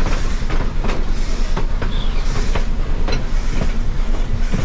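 Railroad car rolling along the track: a steady rumble of wheels on rail with irregular sharp clicks and knocks, and one brief high squeak about two seconds in.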